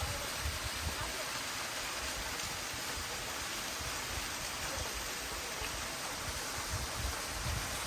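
Waterfall rushing steadily, with irregular low rumbling underneath.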